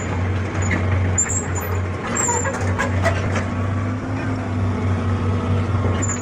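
Excavator's diesel engine running steadily, with a few knocks near the middle and faint high metallic squeaks.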